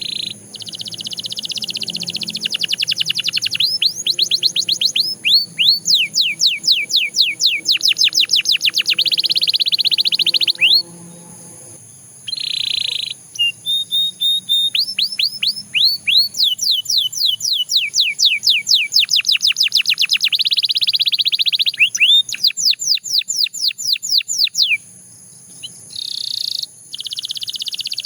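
Domestic canary singing: long, fast trills of repeated down-slurred notes, run after run, with two short breaks about a third of the way in and near the end.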